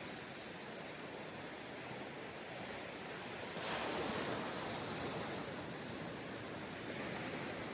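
Ocean surf washing onto a sandy beach: a steady hiss of water with a wave breaking a few seconds in, louder for a second or so before easing off.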